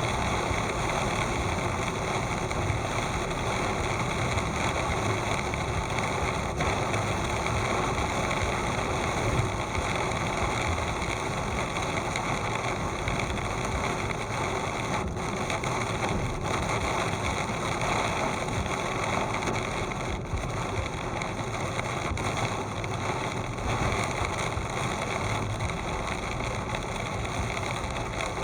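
Steady noise of a car driving through heavy rain: rain and tyre spray over the sound of the car.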